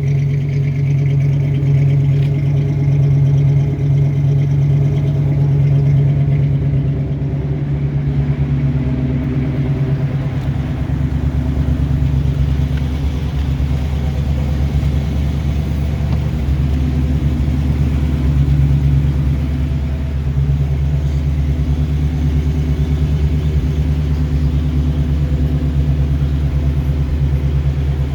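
1973 Ford Bronco's 302 V8 engine running steadily, a deep even note with a slight shift in tone about ten seconds in.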